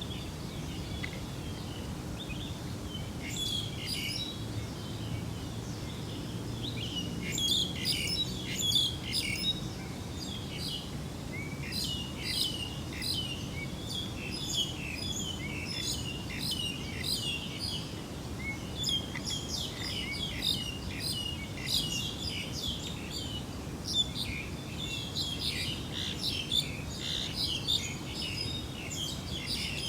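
Small birds chirping and twittering in quick, overlapping calls, starting a few seconds in and running on densely, over a steady low rumble.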